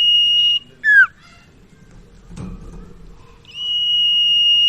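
Sirtu (cipaw) songbird singing: a long, level, high whistle that ends with a short falling note just before a second in, then a second long level whistle begins about three and a half seconds in.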